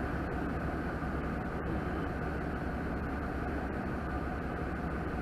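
Truck engine running, heard inside the cab as a steady low drone.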